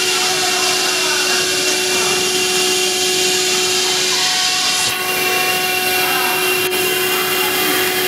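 CNC router running, a steady loud machine hiss with a constant whine. The hiss changes character about five seconds in.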